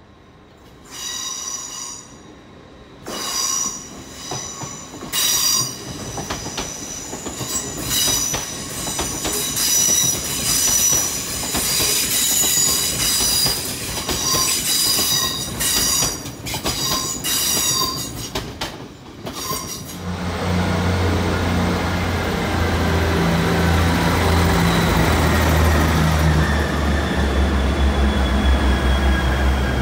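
Train wheels squealing on the rails in repeated high-pitched bursts with crackling, for about twenty seconds. Then a train's low, steady drone takes over, with a whine that falls slowly in pitch.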